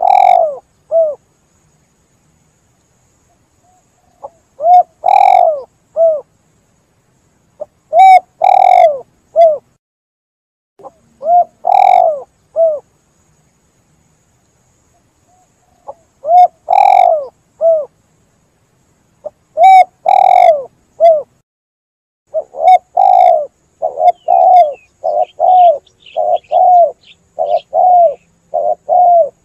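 Spotted dove (tekukur) cooing: short phrases of a few coos every few seconds, then, from about three-quarters of the way in, a faster run of short coos at about two a second.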